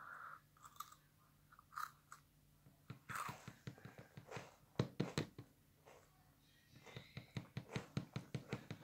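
Someone chewing a crunchy Lotus caramelised biscuit with the mouth close by: short crisp crunches in irregular runs, quickening into a fast even series near the end.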